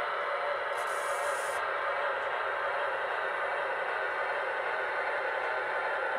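Sound system of an MTH Proto-Sound 2 model diesel locomotive playing a steady diesel engine sound through its small onboard speaker, thin and without bass, with a short hiss about a second in.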